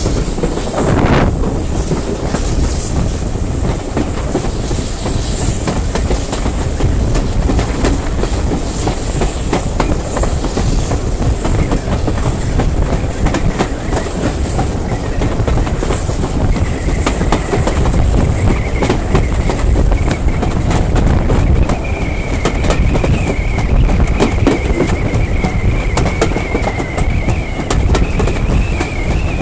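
Steam-hauled heritage passenger train on the move, heard from an open carriage window: steady rolling rumble with the wheels clicking over the rail joints. From about the middle on, a thin wavering squeal of wheels joins in.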